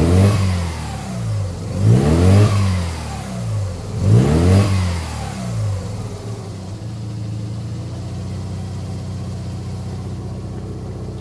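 Mazda RX-7 FC's naturally aspirated 13B rotary engine revved in three quick blips, each rising and falling in pitch, then settling to a steady idle about six seconds in. The engine is still warming up, with the new thermostat not yet open.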